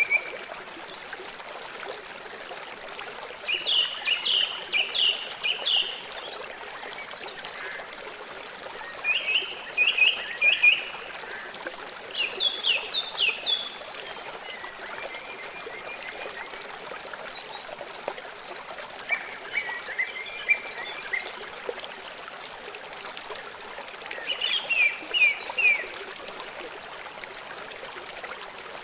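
Forest ambience: the steady rush of running water, with a songbird singing short phrases of quick down-slurred notes, one phrase every few seconds, each standing out above the water.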